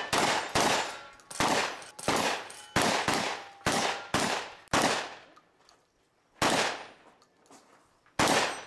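About a dozen shotgun shots fired in quick succession, roughly two a second, each with a short ringing tail. They are followed by two more widely spaced shots near the end.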